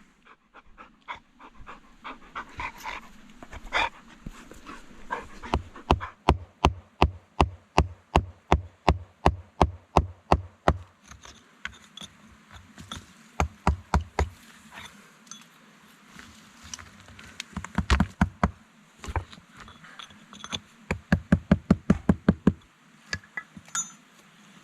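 Dog panting in quick rhythmic bouts of about three to four breaths a second, with short pauses between the bouts.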